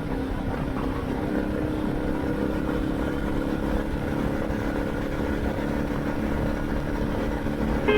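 Dual-sport motorcycle engine running at a steady speed.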